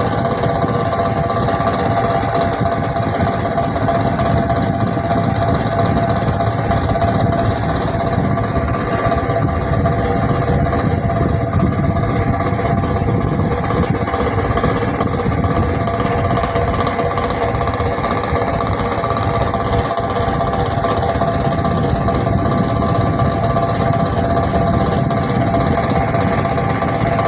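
24V DC railway-coach fan running with a steady whine of several tones, over a constant low rumble like a moving train.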